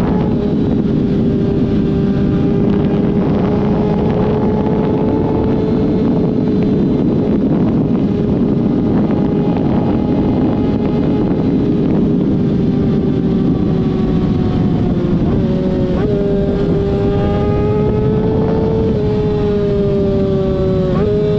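A vehicle engine running at steady high revs with wind noise rushing over the microphone. In the last few seconds its pitch dips and steps back up several times, as with throttle or gear changes.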